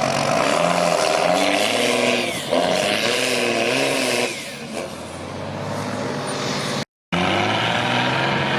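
Heavy off-road truck engine working under load, its pitch rising and falling as it is revved. The sound drops out for a moment about two-thirds of the way through, then the engine runs on more steadily.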